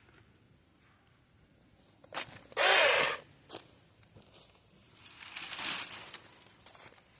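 Battery-powered mini chainsaw triggered in one short burst of about half a second, a little over two and a half seconds in, just after a click. A fainter rise and fall of noise follows later.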